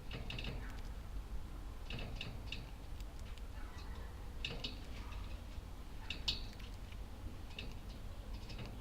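Budgerigars chirping and chattering in short, clicky clusters every second or two, with a steady low hum underneath.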